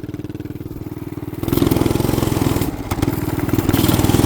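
Small 212cc single-cylinder engine running at a low, uneven speed, then opened up about a second and a half in so that it gets louder and higher, with a brief stumble near three seconds. The engine is running poorly in the snow and cold, and the rider says it 'ain't liking me'.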